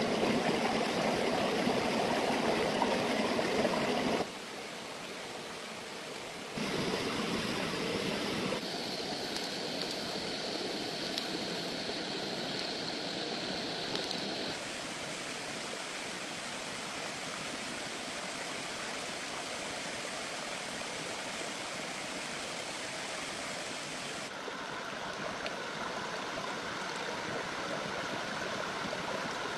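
Flowing water running steadily, its level and tone changing abruptly several times.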